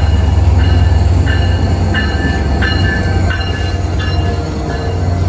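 Caltrain F40PH diesel locomotive's EMD 16-cylinder two-stroke engine running with a loud steady low hum. A bell rings over it in a steady rhythm, about every two-thirds of a second.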